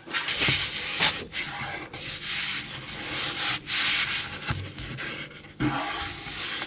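Card stock being cut and handled for matting card bases: a run of scratchy rubbing and scraping strokes, about one a second.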